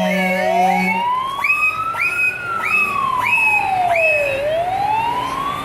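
Two sirens sounding at once. One is a slow wail rising and falling; the other is a short rising yelp repeating about one and a half times a second. A steady low tone stops about a second in.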